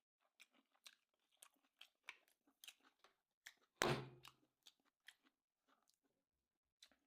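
A person chewing a mouthful of sushi: soft wet mouth clicks and smacks about twice a second, with one brief louder thump about four seconds in.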